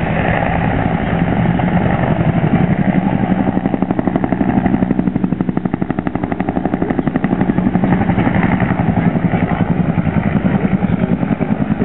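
Aircraft engine droning overhead with a fast, even throb, steady and loud throughout.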